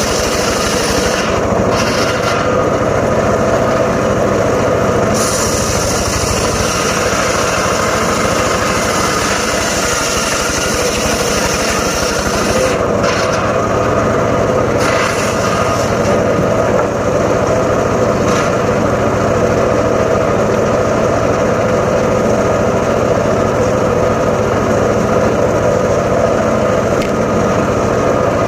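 Homemade engine-driven circular saw rig running steadily at speed on teak wood, with a high hiss that comes and goes in stretches of several seconds.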